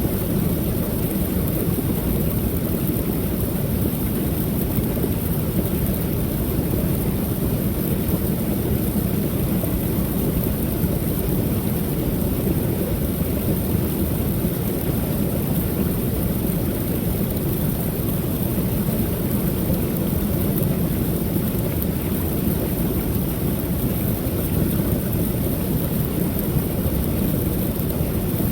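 Creek waterfall: water pouring over the falls in a steady, deep, even rush.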